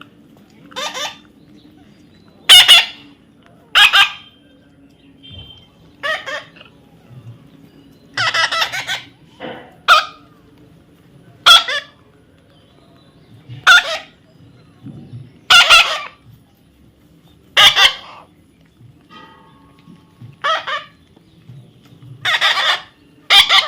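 Parrot giving repeated harsh squawks, short loud calls about every one to two seconds.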